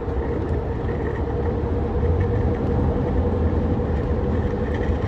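Steady road and wind noise inside a vehicle at highway speed, getting a little louder about two seconds in as it speeds up, with a faint steady whistle of wind leaking at the rear window glass, which is not sealed properly.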